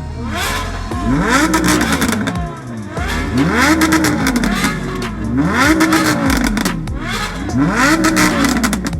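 Car engine being revved four times, each rev climbing and dropping back, with crackling pops from the exhaust as it comes off each rev.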